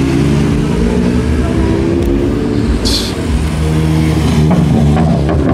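Car engine running loud and close, its note shifting as it is revved. There is a short hiss about three seconds in.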